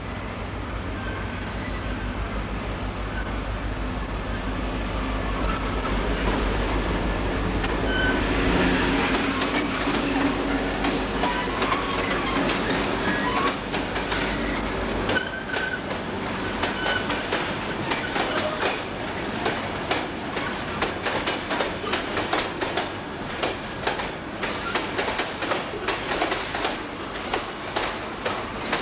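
A train running on the rails. A low drone fills the first half and stops about halfway, then the wheels clatter over rail joints in a rapid, growing clickety-clack. Brief wheel squeals come through the middle.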